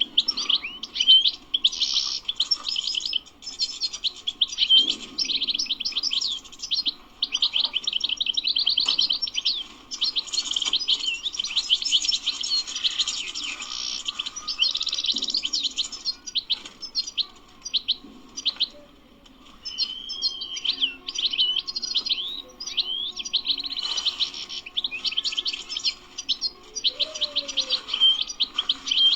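European goldfinch singing: a long, fast, continuous twittering song of quick chirps and trills, with a short pause about two-thirds of the way through.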